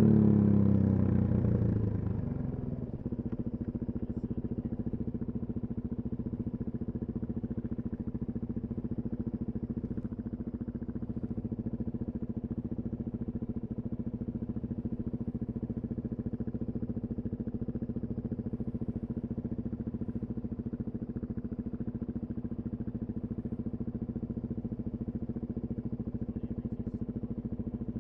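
Suzuki DR-Z400SM's single-cylinder four-stroke engine through a full Yoshimura exhaust: the revs drop away over the first two to three seconds, then it idles steadily.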